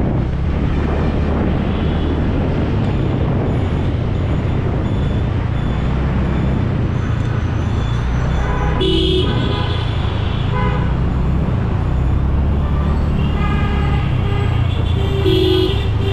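Steady low rumble of riding through road traffic, with vehicle horns tooting several times; the loudest toots come about nine seconds in and near the end.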